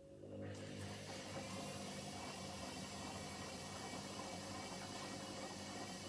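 Hoover H-Wash 300 washing machine mid-cycle, water starting to run through it: a steady hiss with a low hum that comes up within the first second and then holds.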